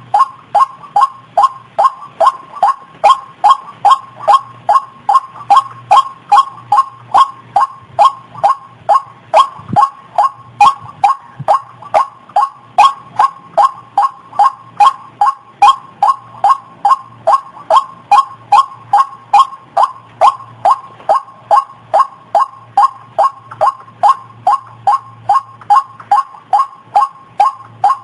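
White-breasted waterhen (ruak-ruak) calling, a fast unbroken run of the same short note repeated about two to three times a second, as used for a bird-trapping lure call.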